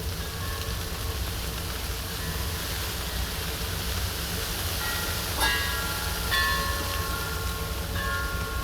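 A steady low rumble, with clear ringing tones that sound a few times: briefly near the start, more strongly around five to six seconds in, and again near the end.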